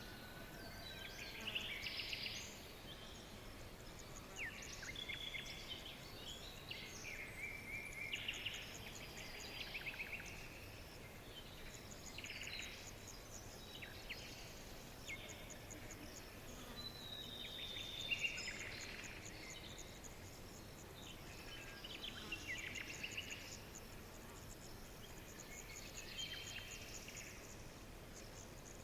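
Several songbirds chirping, whistling and trilling at once, short overlapping calls and rapid rattling trills one after another, over a faint steady hiss.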